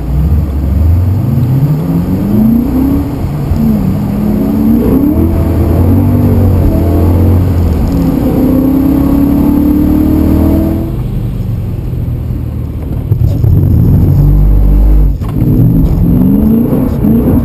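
BMW E92 M3's 4.0-litre V8 heard from inside the cabin under hard throttle while drifting. It revs up in several rising climbs and holds high, eases off about eleven seconds in, then climbs again near the end.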